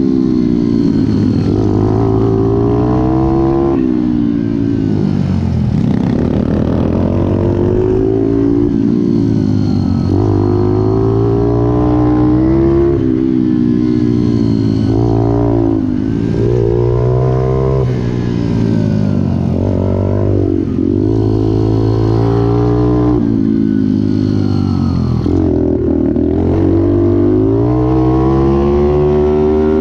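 Pit bike engine running hard, revving up and dropping back over and over as the throttle opens and closes, each climb in pitch lasting a couple of seconds.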